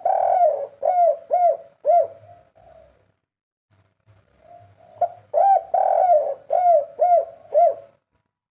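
Spotted dove singing two phrases of its cooing song, each a longer drawn coo followed by three short, evenly spaced coos: the three-note 'kuk 3' ending.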